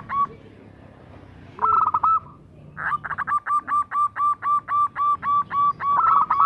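Zebra dove (perkutut) calling: quick, evenly repeated cooing notes, a short burst about one and a half seconds in, then a longer run of about five notes a second lasting some four seconds.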